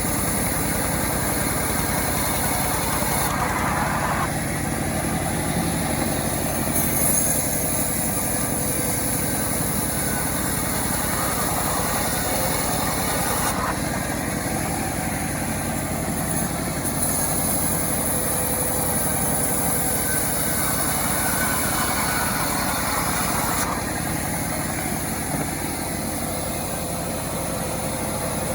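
Self-assembled chainsaw's small engine running steadily, its tone shifting abruptly a few times.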